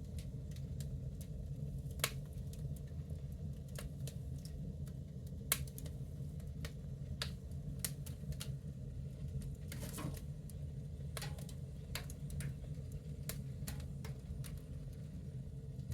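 Wood fire burning in a cast iron wood stove: irregular crackles and pops over a steady low rumble of the flames, with two sharper pops about two and five and a half seconds in.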